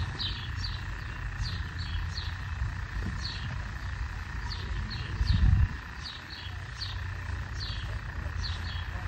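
A small bird chirping over and over, short falling chirps about twice a second, over a steady low outdoor rumble. About five seconds in comes a brief, louder low rumble.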